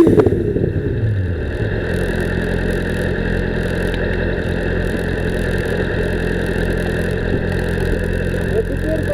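Yamaha Fazer 1000 motorcycle's inline-four engine coming down off high revs and settling within about two seconds into a steady idle.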